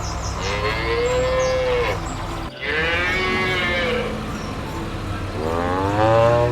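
Cows mooing: three long calls one after another, each rising and then falling in pitch.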